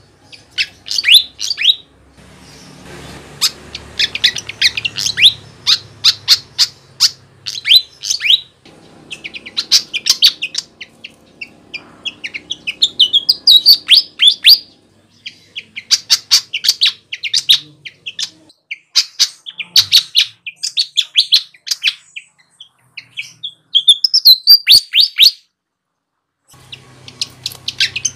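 Sikatan (flycatcher) singing: rapid runs of sharp, high chirps in phrases of a second or two, repeated with short breaks.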